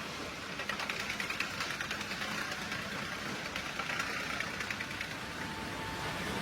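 Sawmill machinery running steadily with a fast, even clatter.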